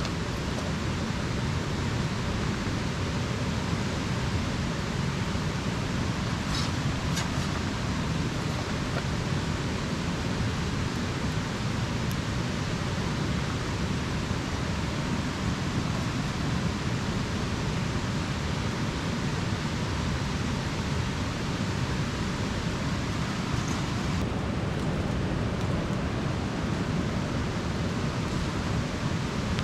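Steady hiss of light rain falling, with a couple of faint clicks about six and seven seconds in.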